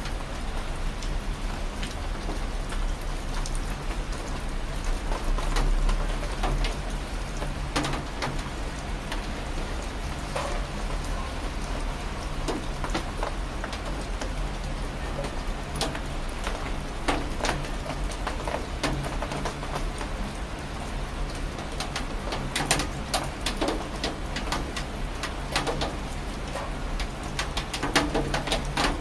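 Rain falling steadily, with individual raindrops striking a surface as sharp clicks that come more thickly near the end, over a low steady hum.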